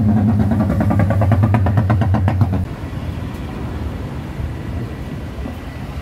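A car's engine and exhaust running loud with a steady low note and a fast pulsing rattle over it, cutting off suddenly about two and a half seconds in. Quieter street traffic follows.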